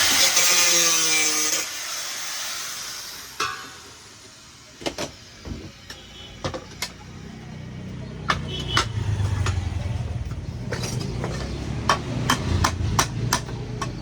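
Repair work with hand tools: a loud hiss for about a second and a half, then scattered knocks, and near the end a run of quick sharp taps, about three a second, over a low hum.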